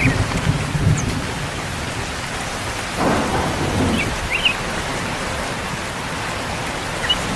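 Steady rain falling, with low rolls of thunder near the start and again about three seconds in. A few short high chirps sound over it.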